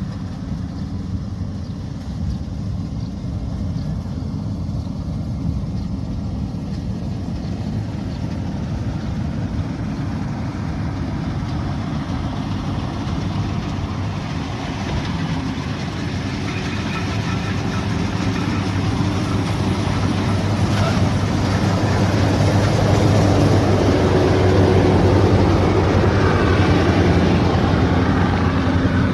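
A combine harvester's diesel engine running steadily with a low hum, growing louder through the second half.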